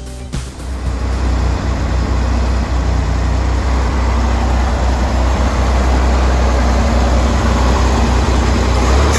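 1967 Chevrolet Corvair's air-cooled flat-six engine running steadily with its fuel pump newly replaced, a strong low rumble that comes in about half a second in.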